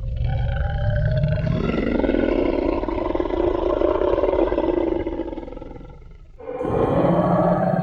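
A Tyrannosaurus rex roar sound effect: a long, deep, rasping roar that starts suddenly, runs about six seconds and fades away. A second roar starts about a second later, near the end.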